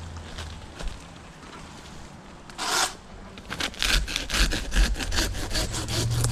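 Hand pruning saw cutting into a palm frond. One rasping stroke comes about two and a half seconds in, then quick back-and-forth strokes of about five a second from about halfway on.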